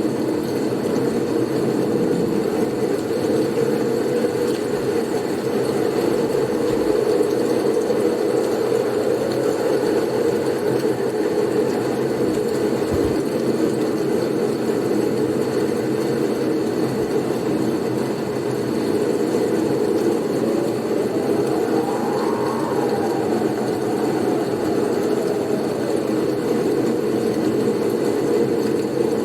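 Blizzard wind blowing as a steady, deep rush. Past the middle, a gust whistles up in pitch and then falls away.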